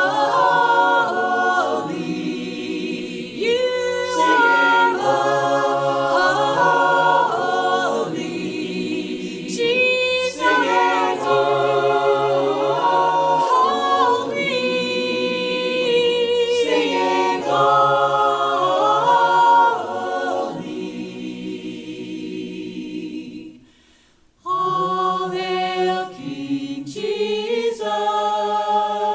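An unaccompanied choir singing a hymn in close harmony, voices holding long chords that change together phrase by phrase. The singing fades to a brief pause near the end, then a new phrase begins.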